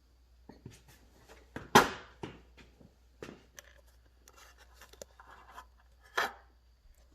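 Irregular knocks, clicks and scrapes of tools and metal parts being handled during a hydraulic cylinder teardown, with two louder knocks, one about two seconds in and one near the end.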